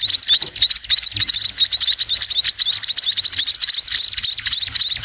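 Small songbird chicks (burung pipit) giving rapid, continuous high-pitched begging chirps, several a second, as they are fed by a parent.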